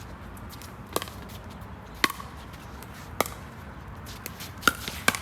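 Pickleball paddles hitting a plastic ball in a rally: five sharp pocks, roughly a second apart, the last two close together near the end.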